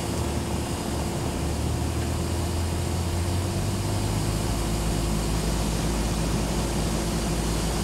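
Cessna 172SP's four-cylinder Lycoming engine and propeller droning steadily, heard inside the cabin; the low hum shifts lower about three and a half seconds in.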